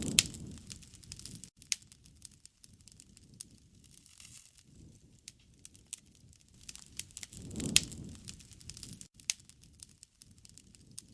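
Wood bonfire crackling and popping, with irregular sharp snaps. Twice, at the start and about eight seconds in, a low rush of flame swells up with a loud pop.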